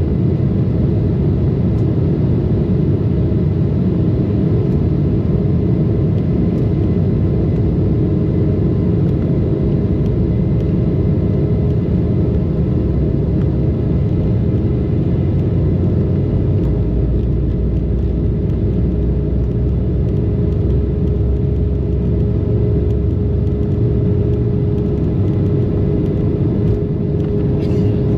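Embraer 190 jet airliner's turbofan engines and airframe, a loud steady rumble with a held mid-pitched whine. A deeper low rumble comes in a little past halfway.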